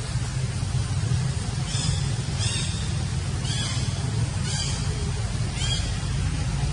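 High-pitched monkey calls, five short ones about a second apart, over a steady low rumble.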